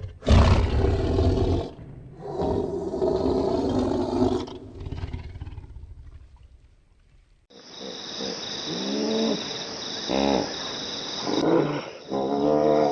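Animal calls: a loud, rough roar-like call just after the start, then a longer pitched call that fades away. From about halfway in, several short calls that swoop up and down in pitch over a steady hiss.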